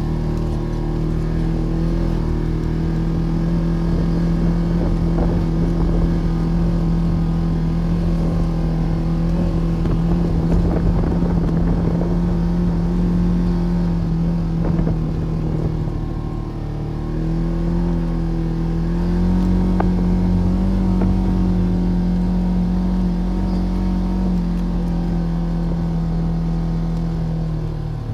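Polaris RZR Trail side-by-side engine running steadily while driving in deep snow, its pitch sagging briefly past the middle, then climbing a little and holding.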